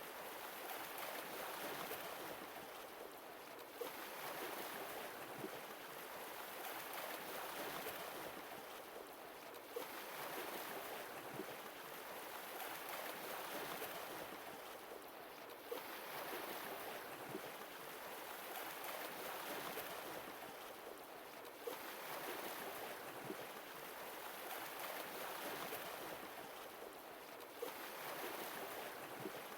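Sea waves washing ashore, the surf swelling and easing about every five to six seconds, with an occasional faint click.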